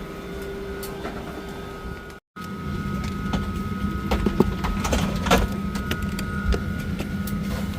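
Steady hum of a Boeing 737-800's cabin during boarding, with short clicks and knocks scattered through the second half. The sound drops out completely for a moment a little over two seconds in.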